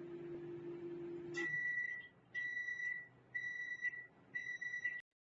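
Microwave oven running with a steady hum that stops with a click about a second and a half in, followed by four high electronic beeps about one a second, signalling that the cooking cycle has finished.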